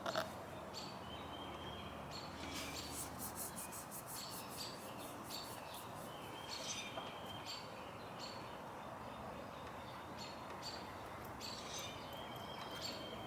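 Faint birds chirping over a steady low background hiss, with a quick trill of rapid notes about three seconds in.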